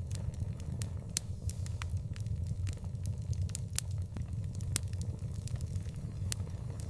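Wood fire burning, with irregular sharp crackles and pops over a steady low rumble. The loudest pops come about a second in and twice more around the middle.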